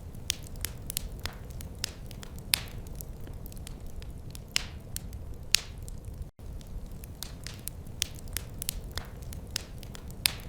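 Wood fire crackling: irregular sharp pops and snaps, several a second, over a steady low rumble of the burning flames. The sound cuts out for an instant about six seconds in.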